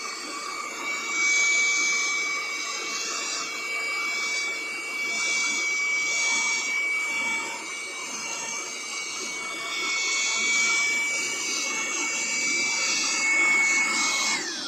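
Vacuum cleaner running with a steady high whine and rushing air that swells and fades. It is switched off near the end, and the whine drops away.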